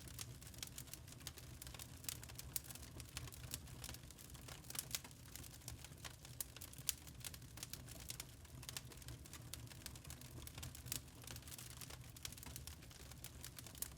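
Wood fire crackling in a fireplace: a dense, irregular run of sharp snaps and pops over a low steady rumble, with a few louder pops at intervals.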